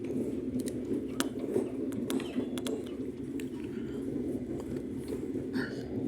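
Steady low rumble of a moving passenger train, with scattered short clicks and knocks.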